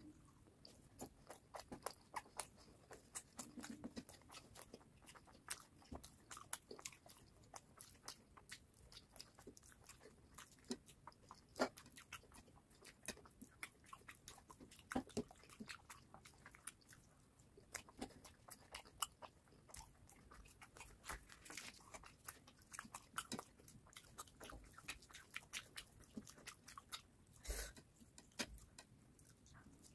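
Close-miked chewing of luchi (deep-fried puffed bread) and dum aloo potato curry: a steady run of quick mouth clicks and smacks, with now and then a louder one.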